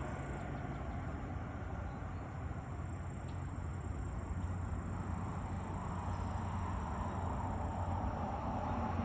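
Cessna Caravan's single turboprop engine running with a steady low drone during landing, growing a little louder near the end.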